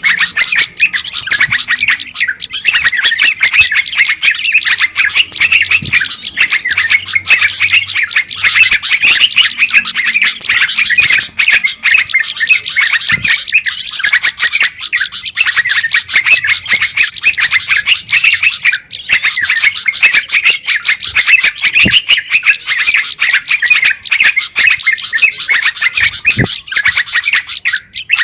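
Dense, continuous chatter of many small songbirds calling rapidly over one another. It is a bird-lure recording of agitated, noisy birds, of the kind played to draw in wild bulbuls and warblers.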